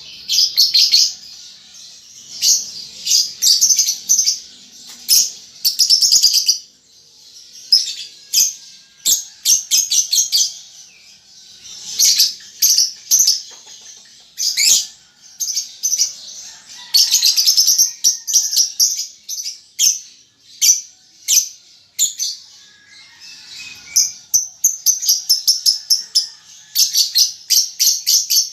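Young lovebird still learning its calls, giving repeated bursts of rapid, high ticking chirps ('ngetik') and run-together chattering ('ngekek') with short pauses between.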